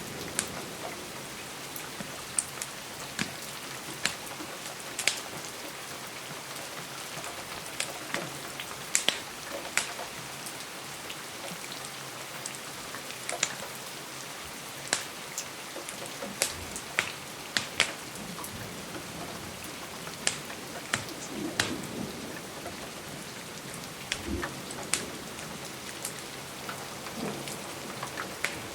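Steady rain on a window, with irregular sharp crackles and pops from a fireplace, one every second or so, and a couple of soft low thumps.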